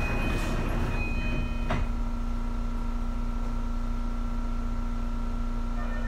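Tokyu 2020 series electric train standing at a station platform: a steady electrical hum from its onboard equipment, with a single sharp click about two seconds in.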